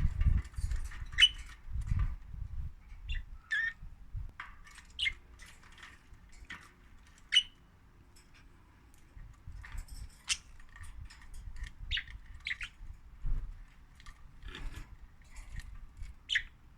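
Pet budgerigars chirping: short separate calls, scattered throughout, some sweeping in pitch, with low bumps underneath.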